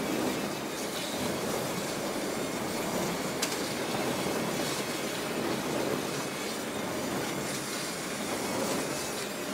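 Train rolling past, a steady rumble of wheels on rails with a sharp click about three and a half seconds in.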